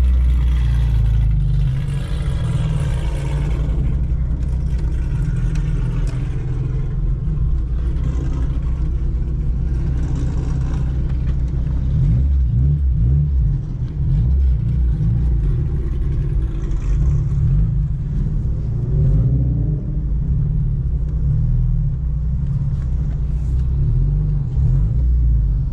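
Engine and exhaust drone of a bolt-on-modified 8th-gen Honda Civic Si's 2.0-litre four-cylinder, heard from inside the cabin while driving. The low drone is loud and steady, with the revs shifting a few times along the way.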